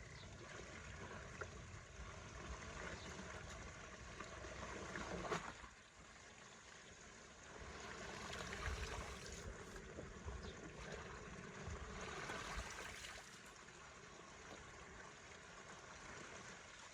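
Running water trickling and gurgling steadily, with a brief louder knock about five seconds in.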